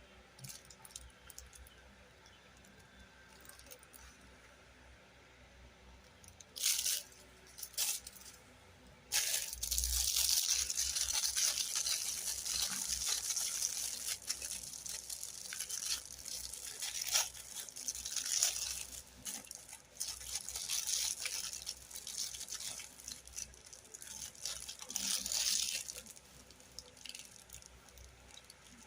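Close-up rustling, crinkling noise of a toy and its packaging being handled. A few short rustles come first, then about nine seconds in a dense crackling rustle starts and runs for most of the rest, with a few sharper crackles.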